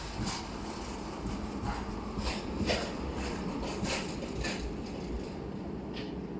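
Tram running on street track: a steady low rumble with irregular sharp clicks and knocks from the wheels and rails.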